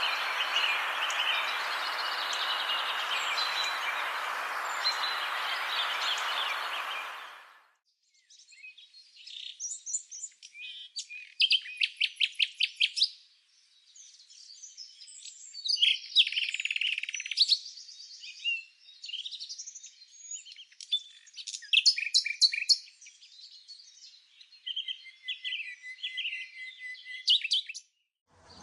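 Songbirds singing, over a steady rushing noise that fades out about seven seconds in. After that, several birds sing and call in turn against a quiet background, some phrases fast trills.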